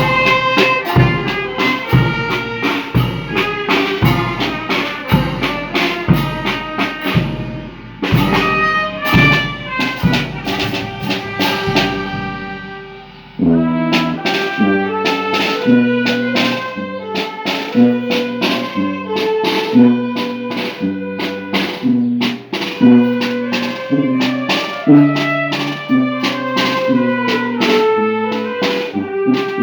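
Brass band music with trumpets and drums keeping a steady beat. The music fades and breaks off to another passage about 8 seconds in, then cuts abruptly to a different tune about 13 seconds in.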